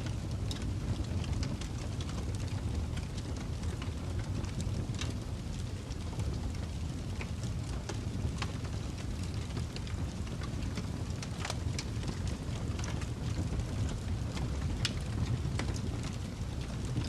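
Wood fire in a fireplace burning with a steady low rush and scattered crackles and pops.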